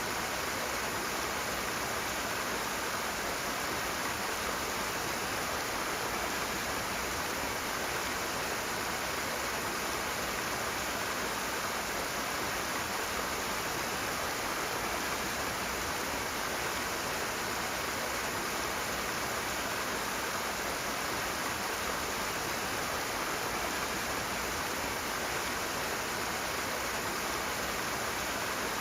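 Rushing water: a steady, unbroken rush of fast-flowing water with no individual splashes standing out.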